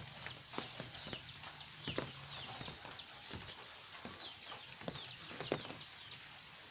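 Steady rain with heavy drops dripping and tapping irregularly on hard surfaces, under many short high chirping calls.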